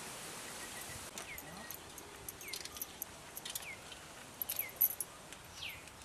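A bird calling over and over, short whistled notes that slide downward, about one a second. A few sharp light clicks come in between, the loudest about five seconds in.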